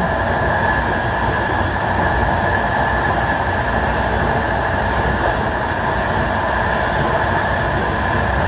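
Passenger train running along the line, heard from the rear of the last coach: steady rolling noise of wheels on rails with a low rumble and a steady high hum.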